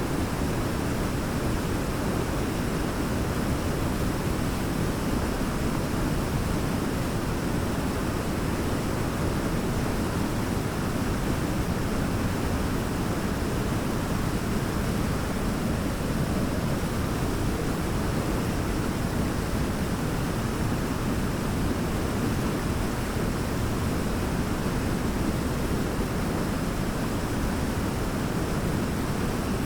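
Large waterfall: a steady, heavy rush of falling water, deep and even, with no let-up or change.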